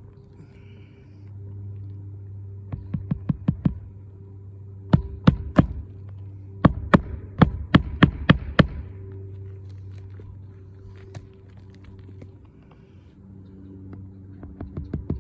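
Hammer blows on a shingle roof, coming in quick runs of several strikes each, the longest about eight in a row, over a steady low hum.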